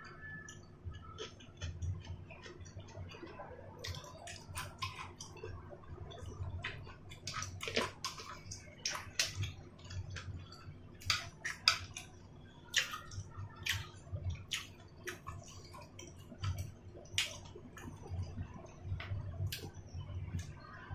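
Close-up chewing and wet mouth sounds of a person eating boiled dumplings, with many short, sharp, irregular clicks and smacks and soft low thuds of chewing.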